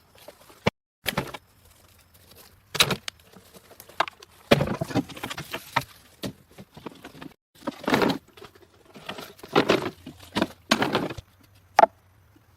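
A string of irregular rustles and scrapes of different lengths, with a few sharp clicks in between.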